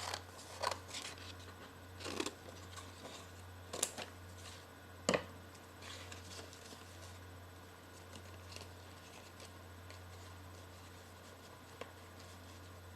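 Sheets of paper being handled and folded: a few short crinkles and rustles in the first five seconds, with one sharp click about five seconds in, then only faint occasional ticks, over a steady low hum.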